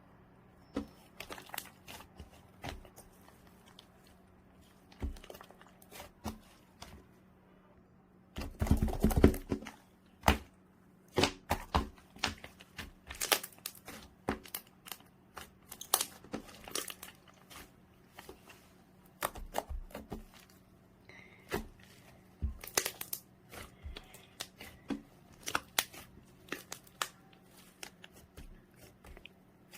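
Two-tone slime being played with: irregular sticky clicks and crackles, with a denser, louder squishing cluster about nine seconds in.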